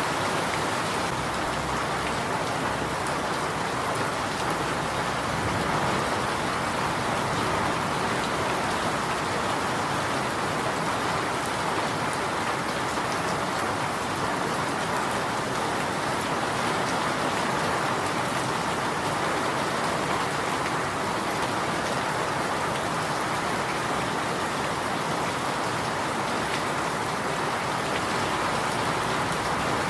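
Steady rain falling, an even, unbroken hiss of many drops on surfaces, with no thunder or changes.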